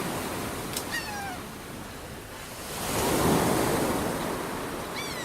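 Sea waves washing on the shore, swelling about three seconds in, with two short falling, mewing gull cries: one about a second in and one near the end.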